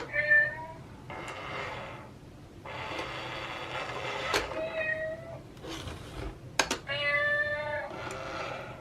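Cat meowing: three short calls, the first at the start, then about five and about seven seconds in, with hissy rustling noise and a few sharp clicks between them.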